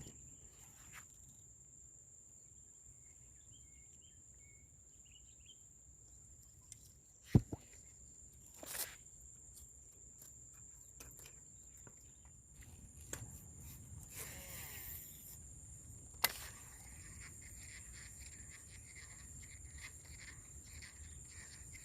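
Quiet outdoor ambience with a steady high-pitched insect drone. Sharp clicks and knocks break in now and then, the loudest about seven seconds in, with a brief hiss around fourteen seconds in.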